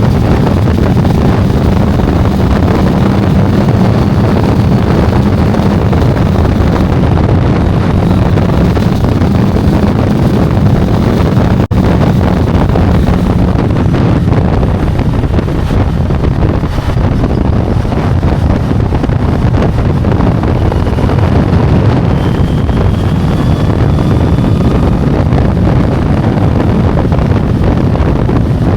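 Wind rushing over the microphone of a motorcycle under way at speed, with the engine's steady drone underneath.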